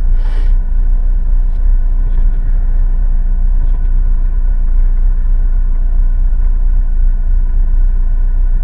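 Chevrolet Cavalier engine idling, heard from inside the cabin as a steady low rumble. A brief hiss sounds just after the start.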